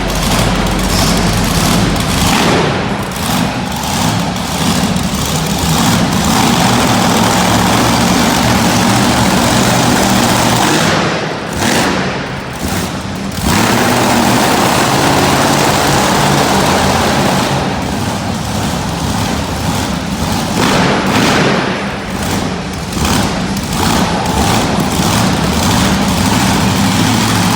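Monster truck engine running loudly and revving, with brief drops in level about 11 and 18 seconds in. The truck, Bone Shaker, has a malfunction and does not make its run.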